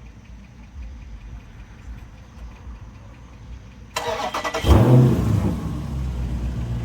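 Straight-piped 6.4-litre (392) HEMI V8 of a 2023 Dodge Challenger Scat Pack being started: about four seconds in, the starter cranks briefly, the engine catches with a loud flare-up, then settles into a steady idle.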